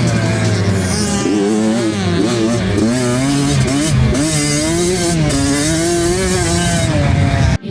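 65cc two-stroke dirt bike engine being ridden, its revs rising and falling constantly as the throttle opens and closes. The engine sound cuts off abruptly near the end.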